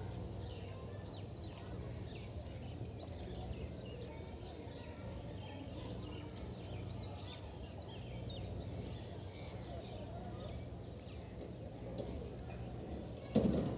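Birds chirping outdoors, with short high notes repeating every second or so, over a steady low hum. A sudden thump near the end.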